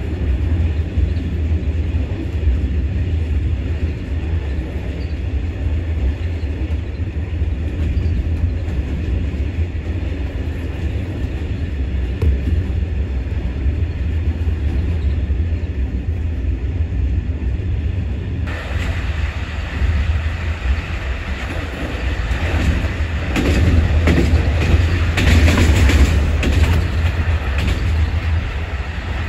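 Passenger train running on the rails, a steady low rumble of wheels and carriages. About two-thirds of the way in the sound suddenly turns brighter, and near the end it grows louder with rattling clatter.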